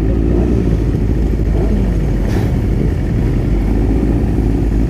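Motorcycle engines running steadily at low revs as bikes ride slowly in a group, with a dense low rumble.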